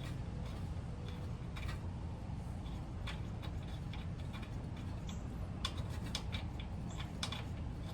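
Scattered light clicks and small metallic ticks as a spark plug is handled and threaded by hand into the engine's cylinder head, over a steady low hum.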